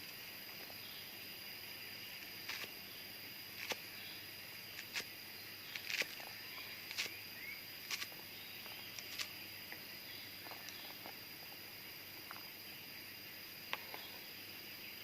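Steady chorus of jungle insects holding constant high-pitched trills, with a scattering of sharp clicks and snaps, most of them in the middle of the stretch.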